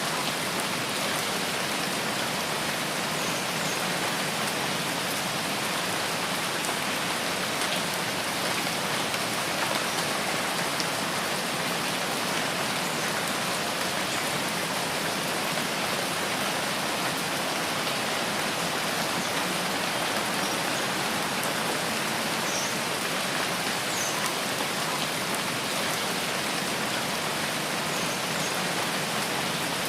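Steady rain falling on a forest, an even hiss with no let-up, with a few faint short high chirps scattered through it.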